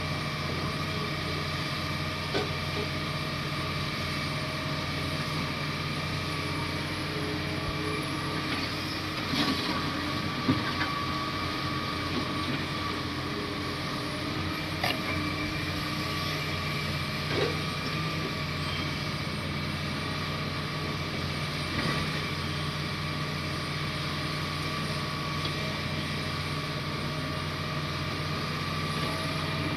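Komatsu D58 bulldozer's diesel engine running steadily, with several short metallic clanks scattered through.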